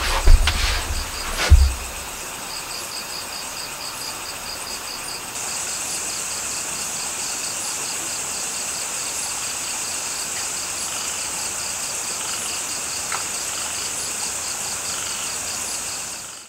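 Crickets and other insects chirping in a steady chorus: a regular pulsing chirp about four times a second over a continuous high buzz that grows louder about five seconds in. A few knocks and thumps of movement are heard in the first two seconds.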